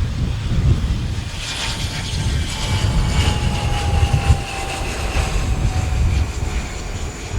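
Small business jet's turbofan engines whining as the aircraft passes, the whine slowly falling in pitch, over low wind rumble on the microphone.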